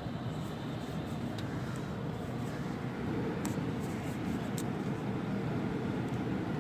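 Steady low rumble of a vehicle, with a few faint ticks about halfway through.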